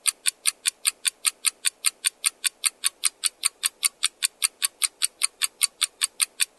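Countdown-timer ticking effect, even clock ticks at about five a second over a faint steady hum.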